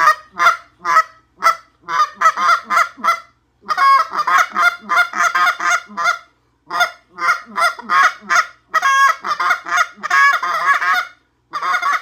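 Cupped Waterfowl hammer goose call blown by mouth in fast runs of honks and clucks, several notes a second, with short pauses between the runs.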